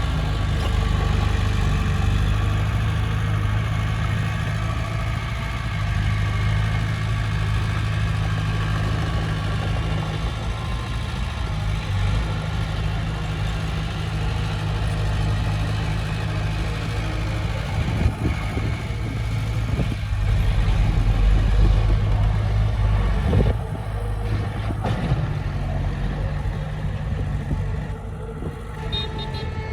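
Heavy earthmoving machine's diesel engine running steadily. It grows louder for a few seconds about two-thirds of the way through, with a few metallic knocks.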